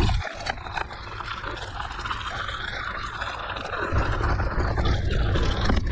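Wind rumbling on the microphone of a moving mountain bike, dropping away just after the start and coming back about four seconds in, over the steady noise of the bike's tyres rolling on a gravel forest road.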